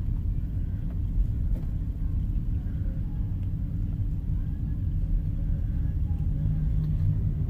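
Low, steady rumble of a vehicle's engine and road noise while driving.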